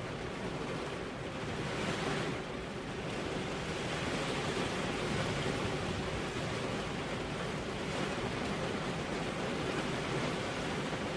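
Steady rain with wind, an even, dense hiss that swells briefly about two seconds in.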